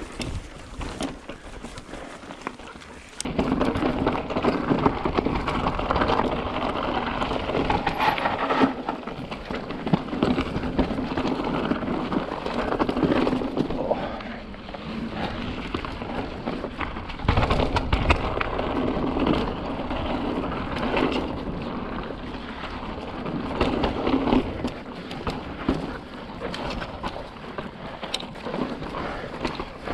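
Mountain bike rolling over slickrock sandstone: a steady rumble of tyres on rock with many small knocks and rattles from the bike, getting much louder about three seconds in.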